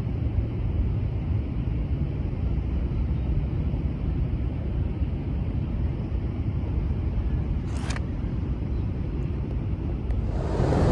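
Steady low rumbling outdoor background noise along a park trail, which grows louder near the end, with one brief sharp high sound about eight seconds in.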